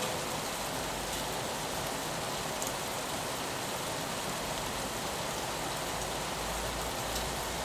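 Steady rain on a window, an even hiss with a few single drop ticks; a low rumble comes in about six seconds in.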